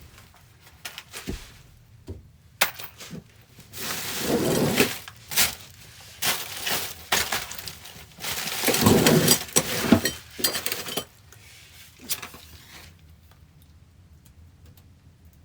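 Objects being handled, with clinks and clatter and two longer harsh noisy stretches about four and nine seconds in.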